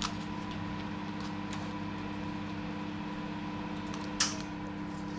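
A steady machine hum runs throughout, with a few faint light clicks and one sharper click about four seconds in, from hands handling the food and tray while wrapping the chicken in puff pastry.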